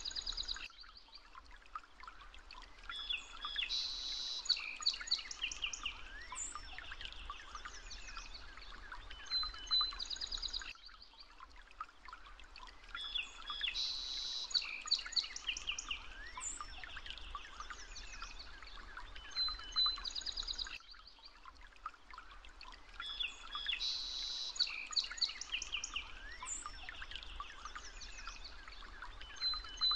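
Birdsong: several birds chirping and trilling over a faint background hiss, in a stretch of about ten seconds that repeats as a loop.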